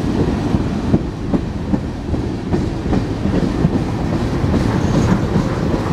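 Freight train cars rolling past close by: a steady, loud low rumble of steel wheels on rail with irregular clickety-clack clicks.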